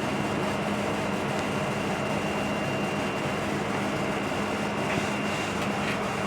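Steady machine hum with a constant low tone and a faint high whine, unchanging throughout.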